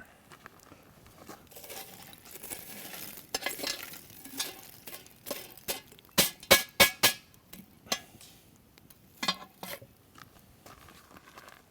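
Metal cooking utensils and cookware clinking and tapping during food preparation: a run of sharp taps, the loudest a quick cluster of about four strikes around six seconds in.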